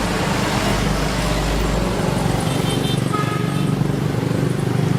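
Steady low motor drone that runs without a break. Faint short tones come through about three seconds in.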